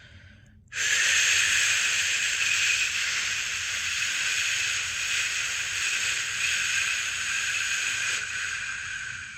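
A person making a long, steady 'shhh' shushing sound to lull a newborn to sleep. It starts abruptly about a second in, is held for about eight and a half seconds, and tapers off slightly at the end.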